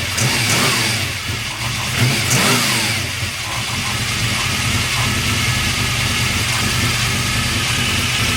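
383 stroker small-block V8 with a solid-roller cam, revved briefly twice in the first few seconds, then settling back to a steady idle.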